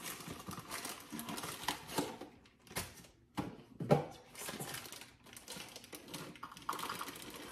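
A package of raisins being opened and handled: crinkling packaging with many small clicks and taps, and one sharp click about four seconds in.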